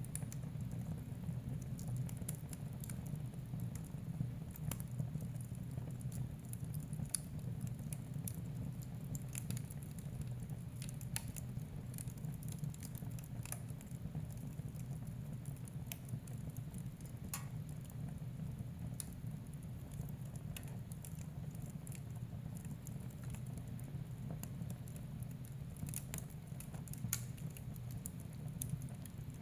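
Wood fire in a fireplace crackling: scattered sharp pops and snaps over a steady low rumble of the burning fire.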